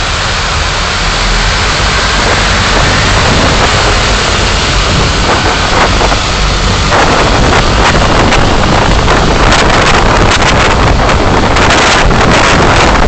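Car driving, heard through a dashcam: steady road and wind noise that swells a little over the first couple of seconds, with a run of short clicks and knocks in the second half.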